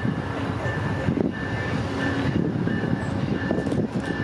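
Railroad cars of a passing train rolling by: a steady rumble of wheels on rail, with a thin high tone coming and going above it.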